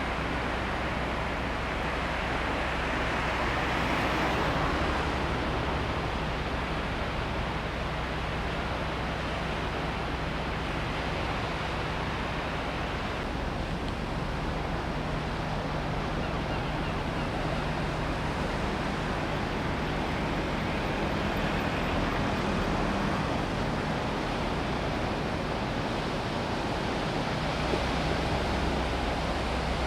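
Wind buffeting the microphone over the wash of water, with a steady low hum under it, likely a passing ship's engine.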